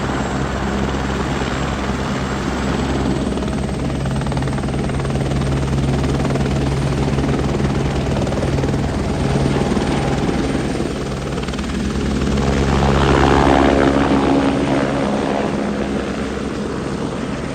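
Helicopter in flight, a steady beat of rotor and turbine. It grows louder about twelve seconds in as it passes closest, then eases off.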